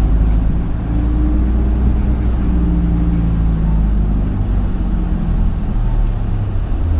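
Isuzu Erga city bus heard from inside the cabin: a steady low diesel engine rumble with drivetrain tones that fall in pitch through the middle, as the bus slows.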